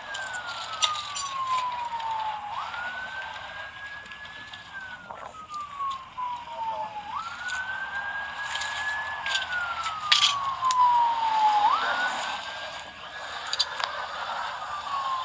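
Ambulance siren in a slow wail: the pitch jumps up, holds, then slides down over a couple of seconds, repeating about every four and a half seconds, with scattered short clicks over it.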